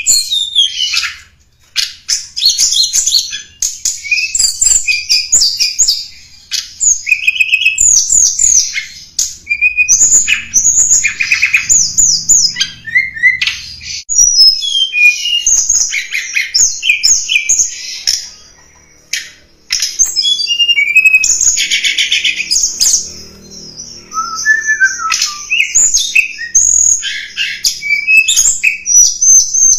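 Tledekan gunung songbird singing: rapid, high chirping and twittering phrases repeated in quick bursts with brief pauses between them. This is a lure call (suara pikat), used to attract wild tledekan or to teach caged birds the song.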